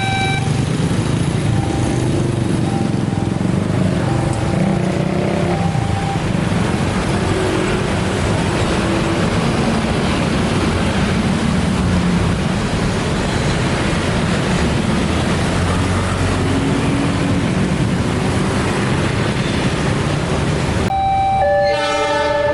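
Steady, loud noise of passing vehicles at a railroad crossing, with faint on-off warning tones in the first few seconds. Near the end it cuts abruptly to a loud, multi-tone warning signal.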